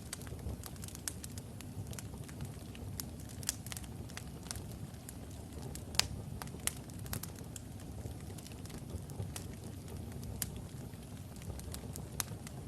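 Wood logs burning in a fireplace: a steady low rumble of flame with irregular sharp crackles and pops, the loudest pop about halfway through.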